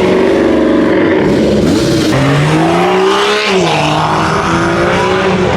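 A car engine running loud and revving. Its pitch climbs steadily about two seconds in and falls back about a second later.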